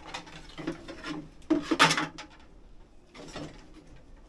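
Wood scraping and rubbing as wooden pieces are dragged and handled, in three bursts, the loudest about one and a half to two seconds in.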